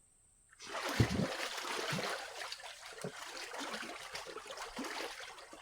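Splashing and sloshing in shallow, muddy pond water, beginning with a heavy splash about half a second in, then irregular splashes that stop suddenly near the end.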